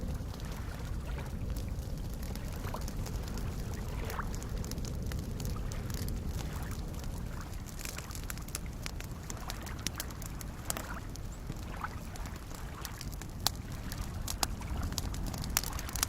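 Soft lake waves lapping and gurgling against the shore over a steady low wash, with a wood campfire crackling in sharp irregular pops, a few louder pops near the end.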